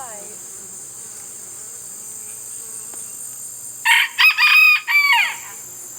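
A rooster crows once about four seconds in, a loud call in several parts whose last note falls away. Insects make a steady high drone underneath.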